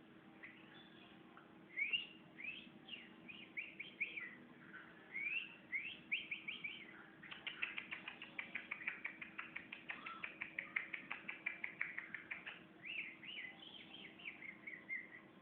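Sooty-headed bulbul (kutilang) singing: a few short rising whistled notes, then from about seven seconds in a fast run of short chirps at roughly five a second, ending with more whistled phrases.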